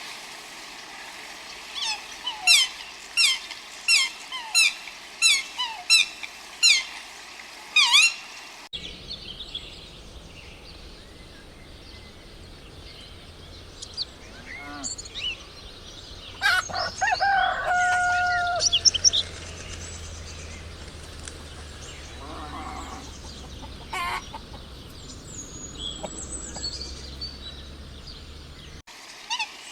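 Birds calling. First comes a run of about a dozen sharp, falling chirps, roughly one every two-thirds of a second. After a cut come scattered calls from other birds, including one longer held call about halfway through.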